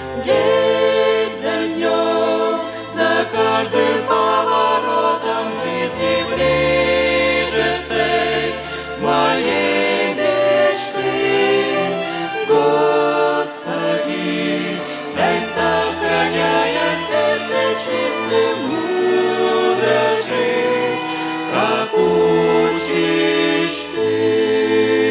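Slow church music from a violin orchestra playing the song's melody over long held bass notes, with no sung words.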